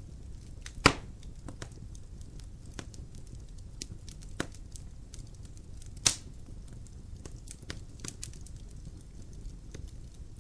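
Wood fire crackling in a fireplace: a low steady rumble of burning with scattered small clicks, and two loud sharp pops, about a second in and about six seconds in.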